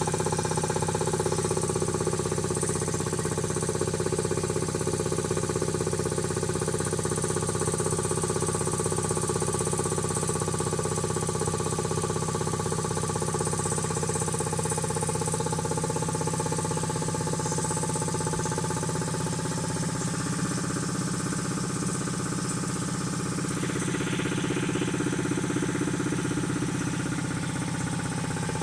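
Rebuilt Quincy QT-5 two-stage air compressor pump running steadily on its first run after the rebuild, a continuous mechanical drone.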